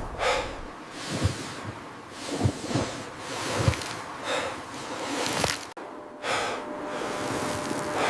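A person breathing hard, a hissing breath about every second, mixed with rustling and a few soft thumps.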